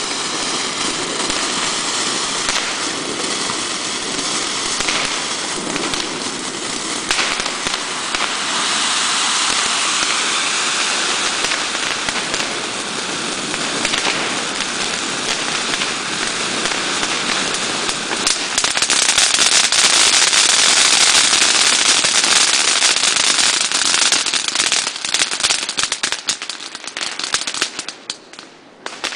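Ground fountain fireworks spraying sparks with a continuous hiss and fine crackle. The spray grows louder about two-thirds of the way through, then dies away near the end.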